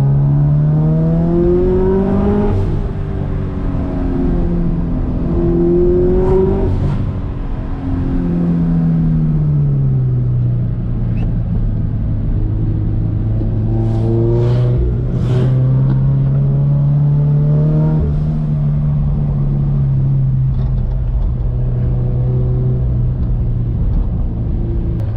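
Turbocharged Scion FR-S's 2.0-litre flat-four engine under load. The revs climb and drop several times as it is driven through the gears, with short sharp hisses when the revs fall.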